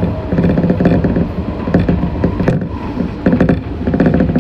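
Meitetsu 6500 series electric train running, heard from inside the car: clusters of wheel clicks over rail joints repeat about once a second over a steady low running hum, with one sharper click about two and a half seconds in.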